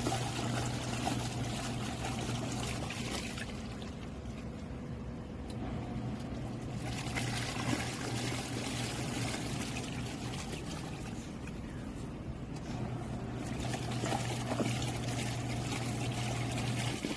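Mini portable washing machine running a wash: its motor hums with water sloshing and trickling. The hum stops for about two seconds a few seconds in, and briefly again later.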